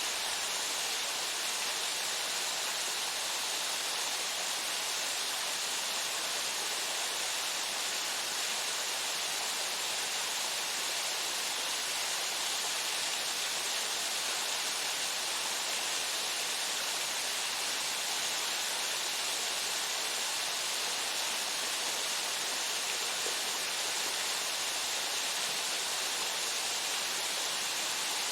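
Waterfall pouring steadily into its pool: a constant, even hiss of falling water, strongest in the upper range, with no other sounds.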